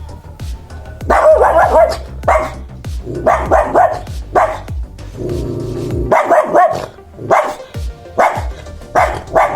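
Dog barking repeatedly in short clusters of barks, over background music with a steady beat.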